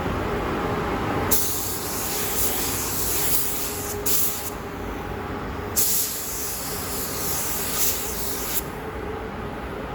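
Paint spray gun spraying in three hissing passes: one starting about a second in and lasting nearly three seconds, a short one around four seconds, and another of nearly three seconds from about six seconds in. A steady low rumble runs underneath.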